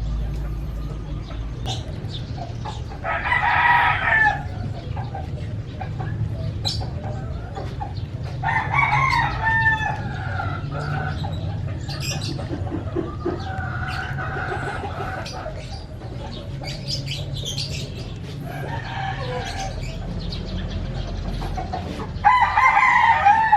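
Rooster crowing several times, a few seconds apart, with other chickens calling.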